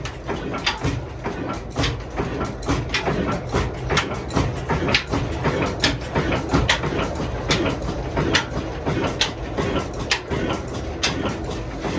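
Ruston diesel engine running with a rhythmic knocking clatter, about three to four knocks a second over a steady low rumble.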